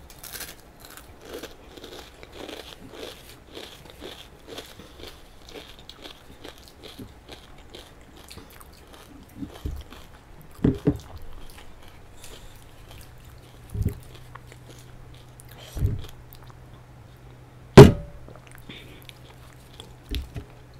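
Close-up chewing and crunching of food, then a few separate sharp knocks, the loudest near the end.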